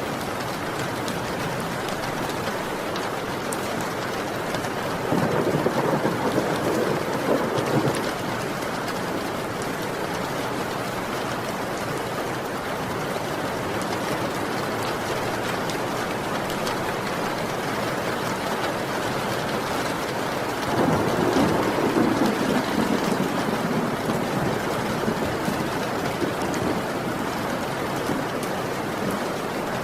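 Heavy rain falling steadily, with two rolls of thunder about five and twenty-one seconds in, each swelling over the rain for a few seconds.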